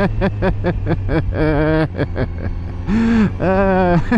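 A man laughing in quick repeated bursts, then two longer drawn-out laughs, over a steady low engine drone.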